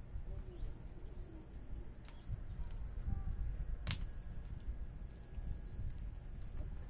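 Wood campfire crackling, with scattered sharp pops over a low rumble, the loudest pop about four seconds in. Faint bird calls in the background.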